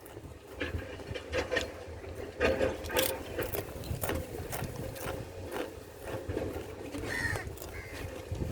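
Crows calling, with a short harsh call about seven seconds in, among scattered sharp knocks and scrapes, the loudest a few seconds in.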